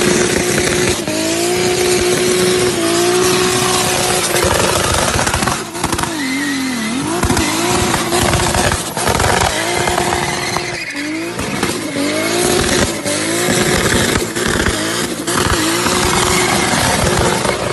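Turbocharged car engine run hard at high revs, its pitch climbing, holding and dropping again and again, with sharp cracks and bangs in between, typical of anti-lag.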